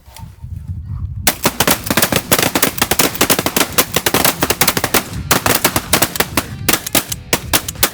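Several shotguns firing a rapid, overlapping volley at snow geese, several shots a second, starting about a second in with a couple of brief pauses. Wind rumbles on the microphone before the shooting starts.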